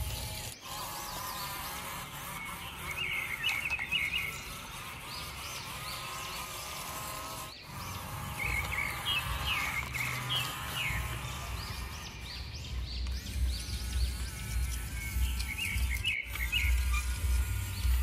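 Small birds chirping in three short bursts of quick twittering, over a low rumbling hum that gets louder in the second half.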